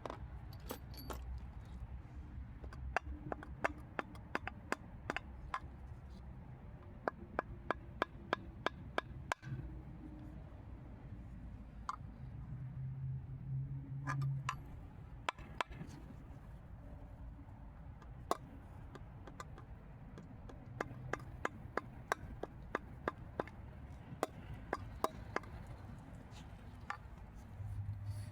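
Hand tools at work on a car: runs of short sharp clicks and taps, a few a second, stopping and starting several times.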